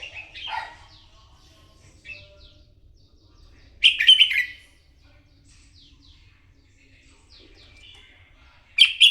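Red-whiskered bulbul song: short bursts of loud chirping phrases a few seconds apart, the loudest about four seconds in and another near the end, with faint thin notes in between.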